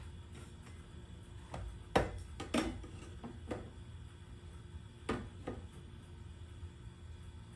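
A few scattered knocks and clicks, the loudest about two seconds in, over a low steady hum.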